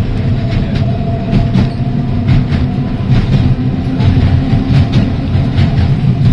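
Heritage electric tram running along its track, heard from on board: a steady low rumble with irregular clicks of the wheels over rail joints.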